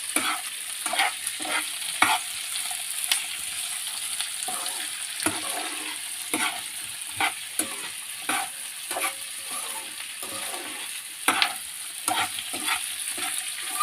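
Vegetables sizzling as they stir-fry in a pan, with a steady high hiss and a spatula scraping and knocking against the pan at irregular intervals.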